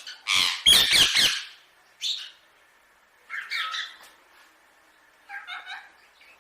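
Indian ringneck parrot squawking: one loud, harsh call about half a second in that lasts about a second, followed by three shorter calls.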